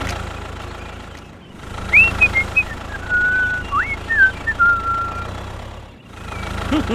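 A small engine hums low and steadily throughout. Over it, about two seconds in, comes a run of whistled notes: short chirps, a couple of quick upward swoops and two held tones, lasting about three seconds.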